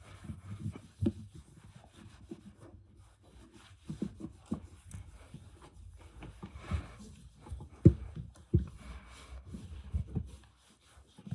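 Irregular knocks, clicks and rubbing from parts and tools being handled during car repair work, the sharpest knock about eight seconds in.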